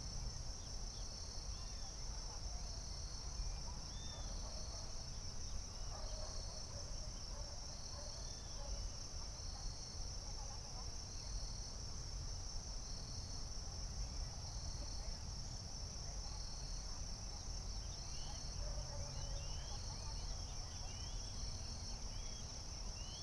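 Steady high insect chorus, with short chirps repeating about once a second and scattered faint bird-like chirps, over a low steady rumble.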